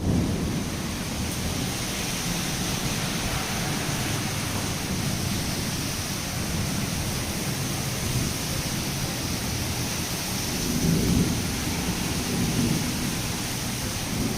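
Heavy rain falling steadily, with a low rumble that swells twice near the end.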